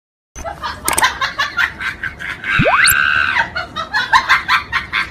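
Cartoon sound effects: a rapid laughing, chattering voice in short bursts, with a quick whistle sliding steeply upward about two and a half seconds in.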